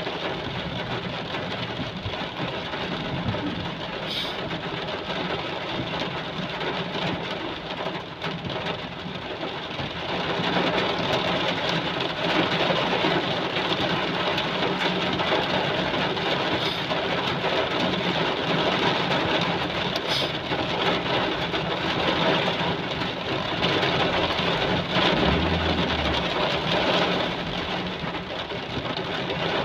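Heavy rain falling steadily, a dense even hiss that gets a little louder about ten seconds in, with a low steady hum beneath it.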